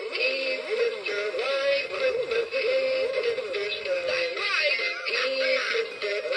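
Gemmy animated snowman's built-in sound chip playing a sung Christmas song, with a wavering melody.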